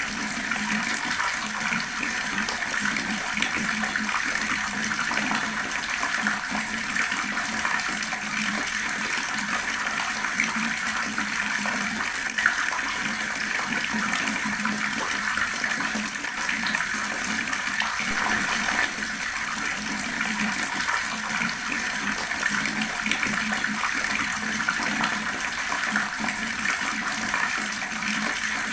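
Water running steadily from an outdoor tap, splashing and gurgling.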